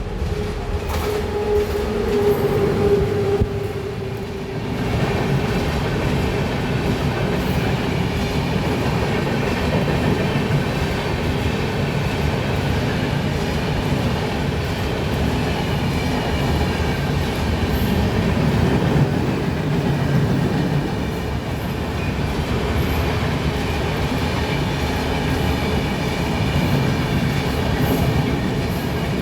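Indian express passenger train passing at full speed, a steady loud rumble and clatter of wheels on the track that carries on throughout. A held tone sounds over it for the first four seconds or so.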